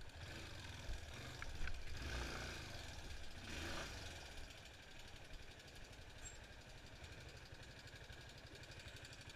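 Yamaha Fazer 250's single-cylinder engine idling low and steady after the motorcycle has pulled up, with a stretch of rustling noise about two to four seconds in.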